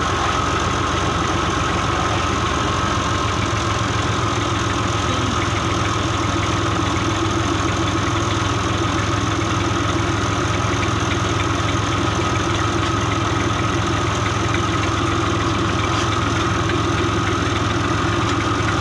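Massey Ferguson 240 tractor's three-cylinder diesel engine running steadily at constant speed, driving a chaff cutter, with a steady high hum over the engine note.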